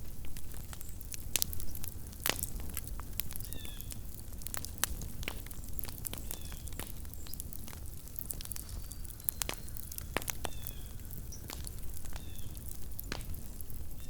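Small wood campfire crackling, with irregular sharp pops over a steady low rumble. A few faint short high chirps come every couple of seconds.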